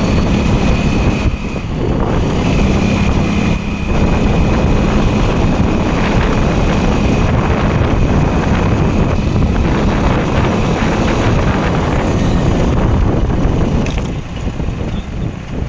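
Wind rushing over the microphone of a moving rider, with a steady faint whine over the first few seconds; the noise drops away somewhat near the end.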